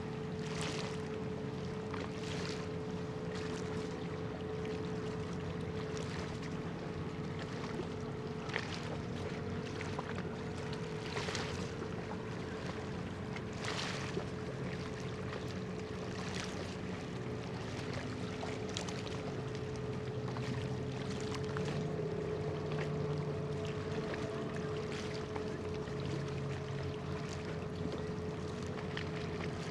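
Anchored cargo ship's engines and machinery running with a steady, even drone and a constant hum. Brief soft swishes come and go every second or two.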